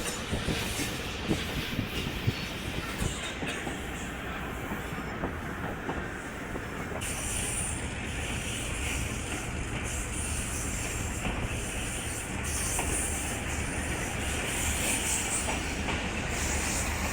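Moving passenger train heard from aboard: a steady running noise of wheels on rail, with a few sharp knocks in the first few seconds and a louder hiss from about seven seconds in.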